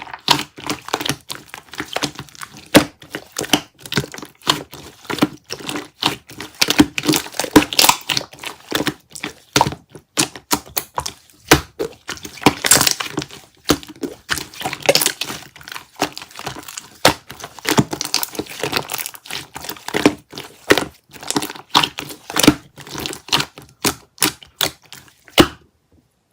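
Close, dense crackling and crinkling with irregular sharp clicks and taps, several a second, stopping near the end.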